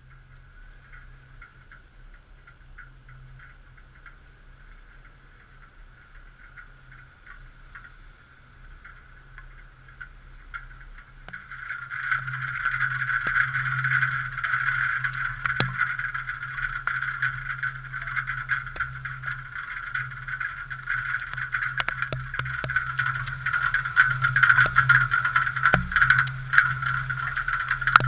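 Typhoon wind and rain picked up by a GoPro, heard as a muffled, rushing noise with scattered ticks and knocks, growing much louder about eleven seconds in as the storm gusts harder.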